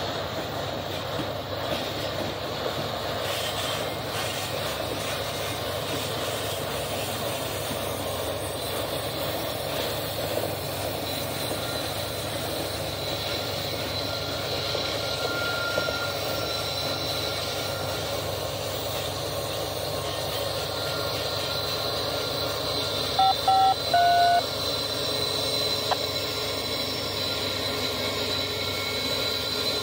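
Long freight train of double-stacked containers rolling past with a steady rumble of wheels and cars, growing a little louder in the second half as the rear locomotive comes up. About 23 seconds in, three short electronic beeps cut through, the loudest sounds.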